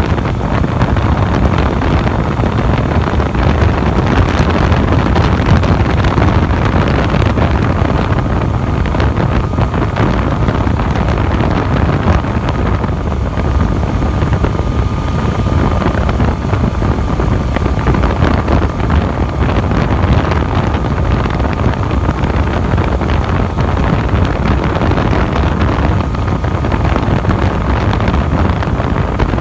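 Steady wind rush on the microphone of a Yamaha FZ-09 motorcycle cruising at about 50 mph, with its inline-three engine running underneath at an even pace.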